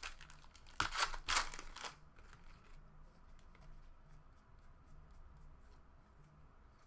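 Plastic trading-card pack wrapper crinkling and tearing for about a second, starting about a second in, followed by faint clicks of cards being handled.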